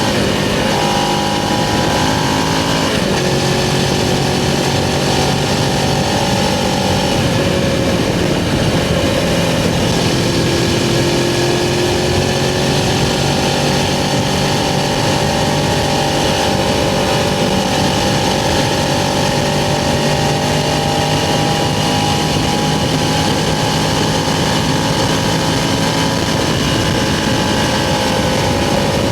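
Suzuki GS500's air-cooled parallel-twin engine running under way at cruising speed, its pitch stepping a few times as the revs change, once a few seconds in and again around ten seconds in. A steady rush of wind and road noise underneath.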